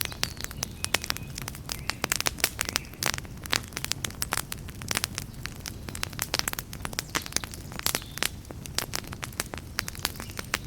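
Wood campfire crackling: many irregular snaps and pops over a low, steady rumble of the flames.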